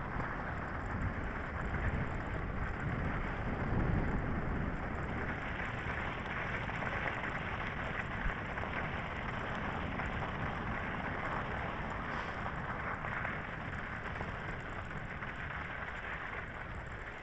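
Steady rolling noise of an electric bike ridden over frozen, thawing snow: tyres rumbling and crunching on the crust, with no distinct knocks or tones.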